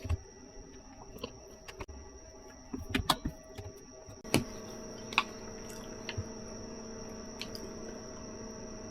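Small clicks and knocks of objects being handled, then a thump about four seconds in, after which a steady hum with several fixed tones runs on.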